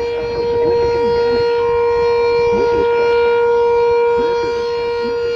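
Sentry 7V8 outdoor warning siren sounding a steady wail, the alert signal for a test tornado warning. One held pitch whose loudness swells slightly about three seconds in and eases again.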